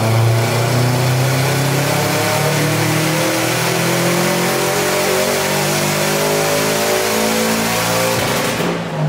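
Subaru WRX's turbocharged flat-four on a hub dyno during a full-throttle ramp run, revs climbing steadily for about eight and a half seconds. The run cuts off abruptly near the end as the throttle is lifted.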